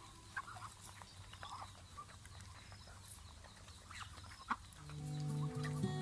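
Faint, scattered short calls of farmyard poultry. Background music comes in about five seconds in.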